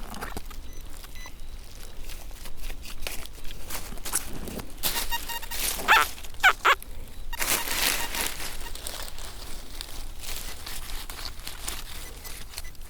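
Footsteps and rustling in forest leaf litter, with a dog barking a few times about six seconds in.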